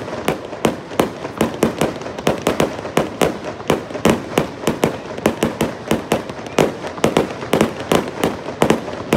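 Fireworks firing from the ground in a rapid, unbroken string of shots and bursting stars, several sharp bangs a second.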